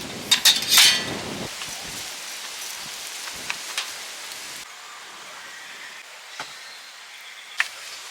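Steady rain hiss. In the first second there are a few sharp clinks of dishes or utensils, and a few lone ticks follow later.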